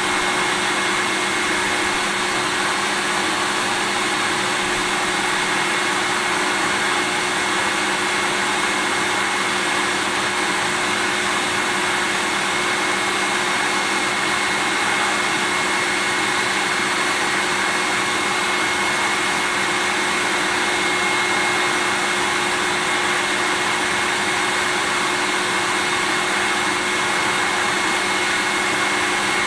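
Vacuum cleaner running steadily without change: an even rushing noise with a thin high whine and a lower hum underneath.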